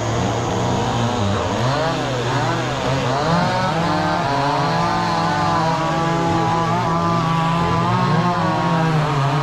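Chainsaw engine running steadily, its pitch rising and falling over and over.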